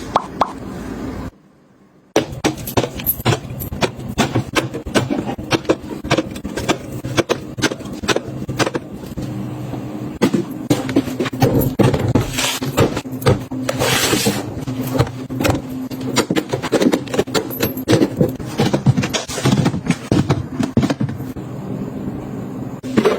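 Snack packages and containers being handled and set down: a busy run of clicks, taps and knocks, with bursts of packaging crinkle.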